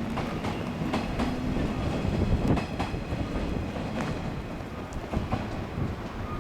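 Shinano Railway 115-series electric train rolling along the track, wheels clacking over the rail joints over a low rumble.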